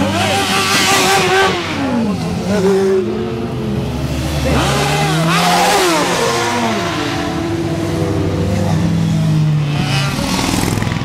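Several motorcycle engines running together, revving up and down so that their pitch rises and falls more than once.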